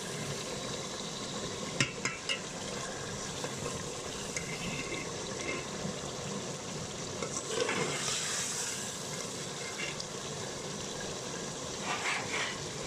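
Chicken, potato and pea curry sizzling in a pot while it is stirred, with a few sharp clicks about two seconds in and a louder swell of stirring around eight seconds.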